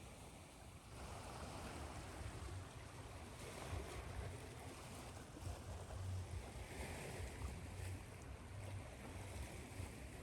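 Ocean surf washing steadily, a continuous hiss that swells and eases every couple of seconds over a low, fluttering rumble.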